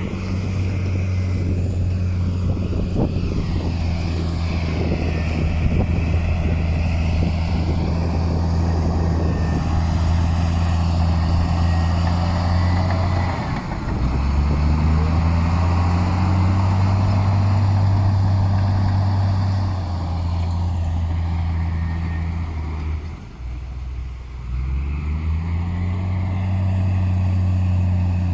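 Heavy diesel engine of earthmoving machinery running under load. Twice its note drops away and then climbs back up as the throttle comes on again, once about halfway through and again a few seconds before the end.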